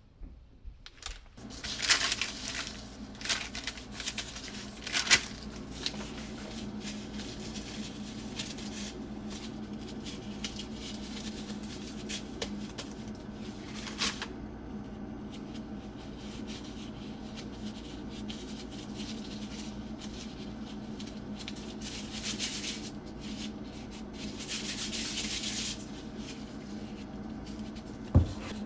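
Intermittent rubbing and rustling handling sounds over a steady low hum, with a sharp knock near the end.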